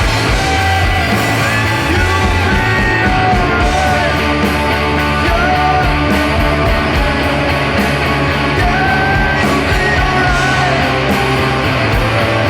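Live rock band playing loudly with distorted guitars, bass and a steady drum beat, a voice singing or shouting over it at times.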